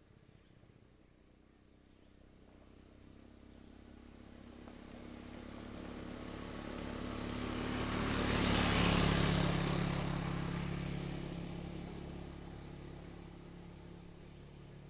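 A motor vehicle passing by, its engine and road noise growing louder for several seconds, peaking about two-thirds of the way through, then fading. A steady high insect drone runs underneath.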